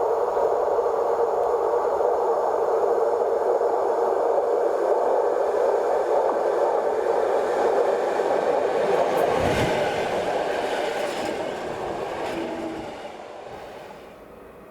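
A train rolling past on the rails, a steady loud rumble of wheels on track that fades away over the last few seconds, with a brief gust of noise about nine and a half seconds in.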